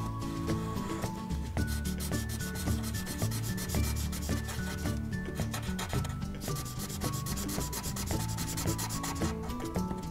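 Felt-tip marker scratching on paper in quick back-and-forth strokes while an area is coloured in.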